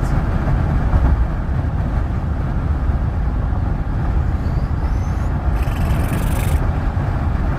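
Steady road and engine rumble heard inside a moving vehicle's cabin on the highway, with a short burst of hiss about six seconds in.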